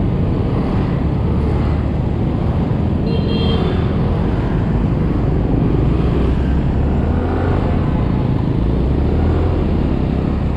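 Wind rushing over the microphone and a small Yamaha scooter's engine running while riding through dense city motorbike traffic. A short high tone sounds about three seconds in.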